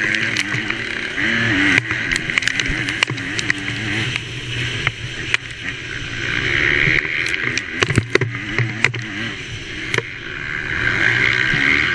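MX2-class motocross bike engine racing, its pitch rising and falling as the throttle opens and closes, under a rushing noise that swells and fades. Sharp knocks and clicks come throughout, thickest about eight seconds in.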